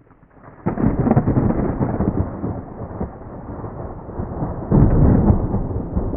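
Thunder rumbling: a sudden deep crack about a second in that rolls on and slowly fades, then a second loud roll near the five-second mark.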